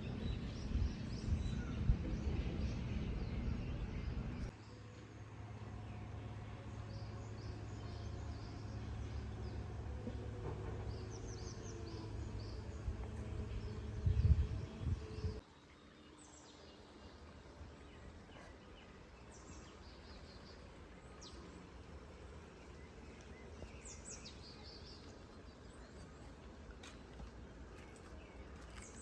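Outdoor ambience with birds chirping in short high calls, over a low rumbling background that drops away sharply twice.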